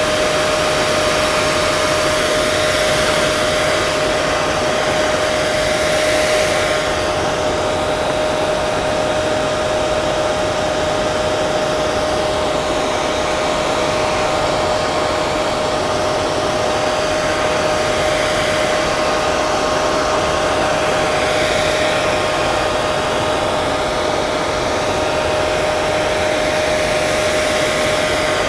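Hair dryer blowing steadily, a continuous rush of air with a steady motor whine.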